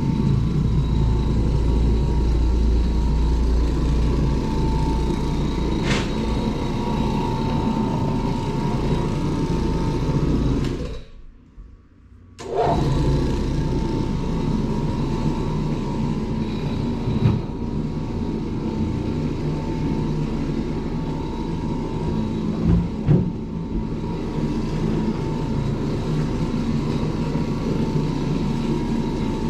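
Carpet-cleaning machine motor running steadily with a faint whine, dropping out briefly about eleven seconds in before carrying on, with a few light knocks later.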